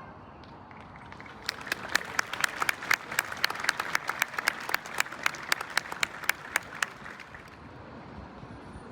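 Audience applauding after a pause, with individual hand claps standing out sharply; the clapping starts about a second and a half in and dies away after about six seconds.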